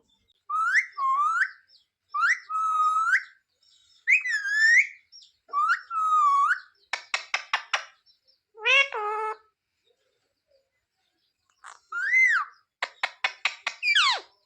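Indian ringneck parrot vocalising: a string of short, whistled, word-like calls, each about a second long with gliding pitch, broken twice by a fast rattling chatter.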